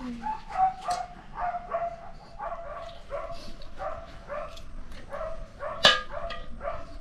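A dog whining in short, high yelps, about three a second, kept up without a break. A single sharp knock sounds near the end.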